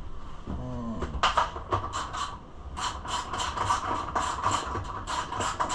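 Work on a dirt bike's side plastics: a run of sharp scraping clicks, about three or four a second, starting about a second in.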